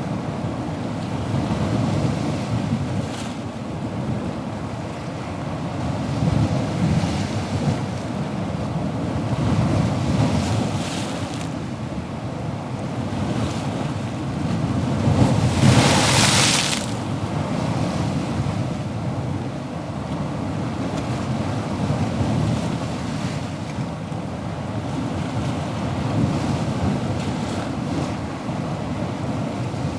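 Ocean surf: a continuous rush of waves that swells and ebbs every few seconds. About halfway through, one wave breaks louder, with a bright hiss.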